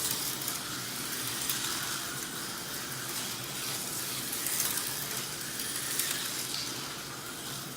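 Tyco HO slot cars' tiny electric motors whirring as the cars run around the plastic track, pitch rising and falling as they speed up and slow, with light clicking and rattling of the cars on the track.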